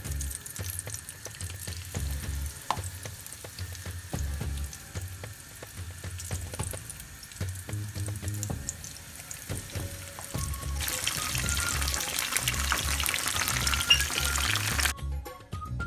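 Battered prawns frying in hot oil: a crackling sizzle with many small pops, growing much louder a little after two-thirds of the way and cutting off suddenly near the end. Background music with a steady low beat runs underneath.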